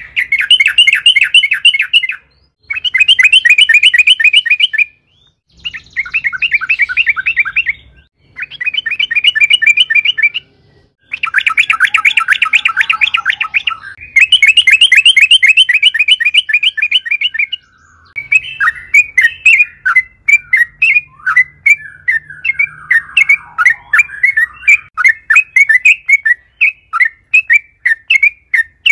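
Yellow-vented bulbul (trucukan) singing loudly in rapid, rattling trilled phrases of about two seconds each, with short pauses between them. From a little past halfway, the song breaks into a faster run of separate chattering notes.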